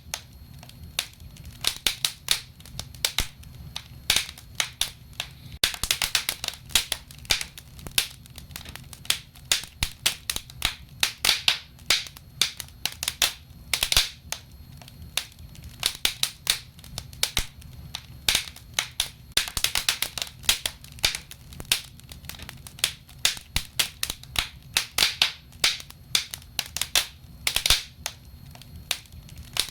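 Wood fire burning in a fireplace, crackling and popping in quick, irregular snaps, with a low steady rumble beneath.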